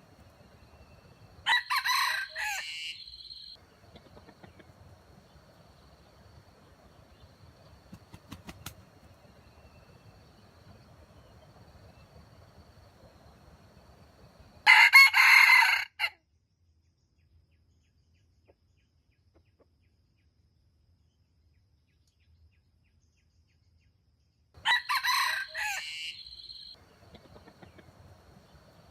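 Rooster crowing three times, each crow lasting about two seconds, the middle one the loudest.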